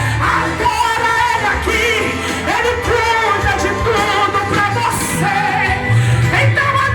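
A woman singing a Portuguese gospel song with marked vibrato over a live band's accompaniment, with steady bass and cymbals.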